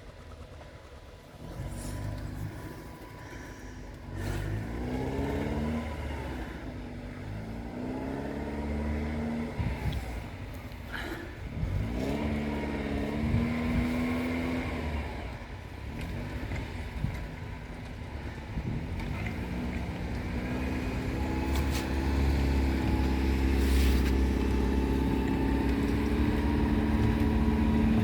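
All-terrain vehicle engine revving up and easing off three times in a row, each time climbing in pitch before dropping back. It then pulls steadily and louder, its pitch slowly rising, through the last third.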